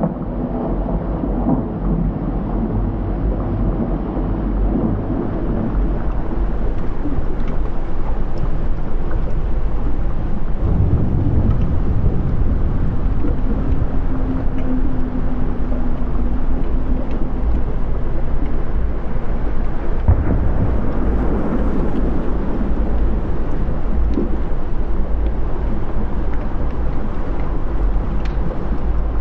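Volcanic eruption sound effect: a loud, continuous deep rumble with scattered crackles and pops.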